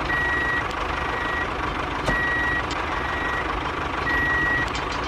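Reversing beeper sounding: a steady high beep about half a second long, repeating about once a second, every other beep louder, over a steady running noise with a click about two seconds in.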